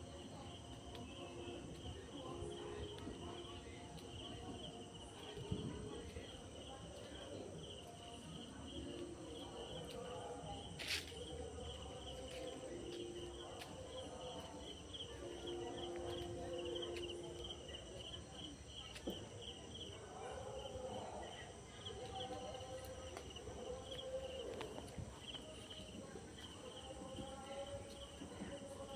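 Insects chirping in a steady, even, high-pitched pulse.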